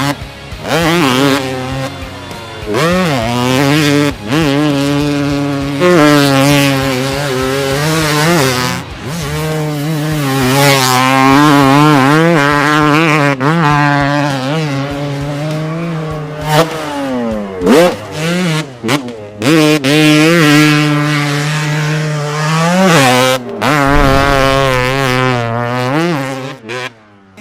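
Motorcycle engine sound revving up and down again and again over a steady low drone, with brief drops in between.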